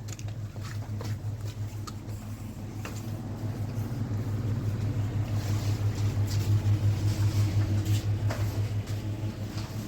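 An engine running with a steady low hum that grows louder and then eases off slightly near the end, with a few faint clicks over it.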